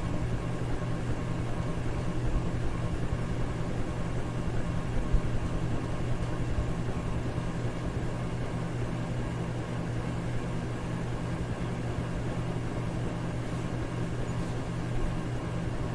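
Electric fan running steadily: an even rushing of air over a constant low motor hum.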